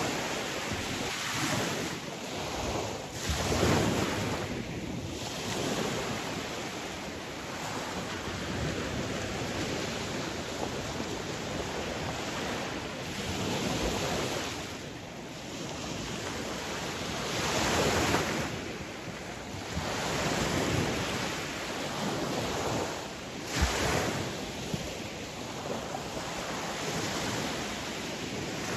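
Sea waves breaking and washing on a shore, the surf swelling and ebbing every few seconds, with wind on the microphone.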